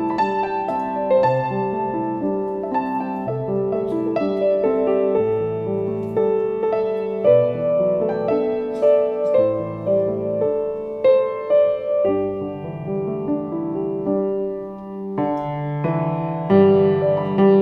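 Solo piano playing a slow, lyrical melody over a low accompaniment of repeated bass notes and chords, each note struck and left to ring. The music grows fuller and louder about two thirds of the way in.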